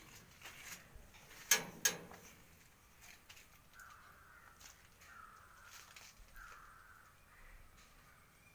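Two sharp clicks close together, then three short faint animal calls a second or so apart, caw-like in kind.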